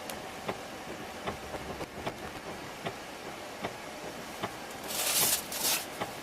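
Steady vehicle running noise with a regular tick a little more than once a second. Two short, loud bursts of hiss come about five seconds in.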